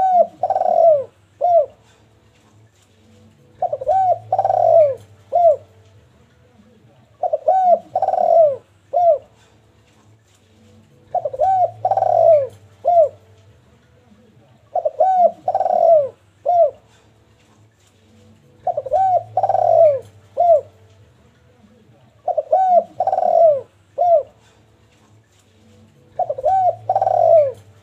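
Sunda collared dove (derkuku) cooing in full, steady song: the same short phrase of a few rounded coo notes, the middle one longest, repeated about every four seconds.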